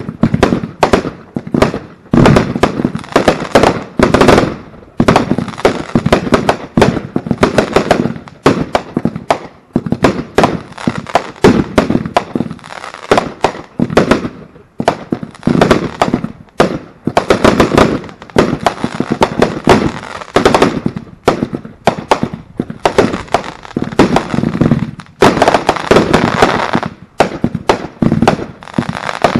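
Consumer fireworks firing in rapid succession: shots launched from one spot on the ground and bursting overhead, several bangs a second with crackle between them and a few brief lulls.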